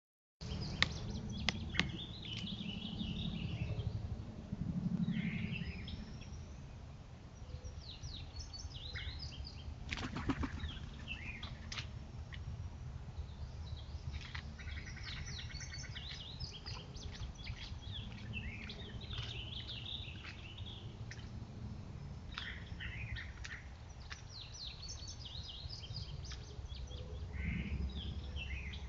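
Several songbirds chirping and calling in quick, overlapping short notes and trills over a steady low rumble. A few sharp clicks come about a second in and again around ten seconds.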